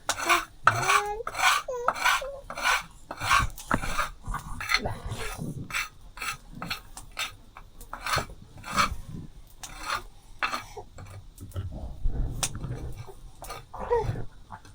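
Metal utensils scraping and clinking against a pot or dishes, an irregular run of short scrapes and knocks, several a second.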